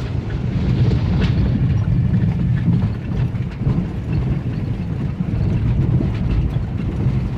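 Chrysler PT Cruiser being driven hard across a rough field: a steady low rumble of engine and tyres, with scattered rattles and knocks from the car bouncing over the bumps.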